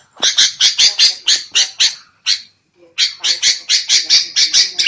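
Sooty-headed bulbuls (kutilang) giving their noisy, harsh "ribut" chatter, the call used as a lure for wild bulbuls. The calls come fast, about five a second, in two runs with a short pause about two seconds in.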